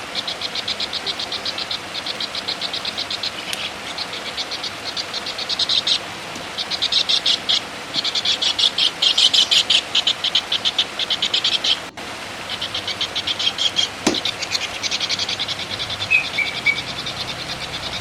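A songbird's rapid, high rattling chatter of about ten notes a second, in runs of a few seconds broken by short pauses.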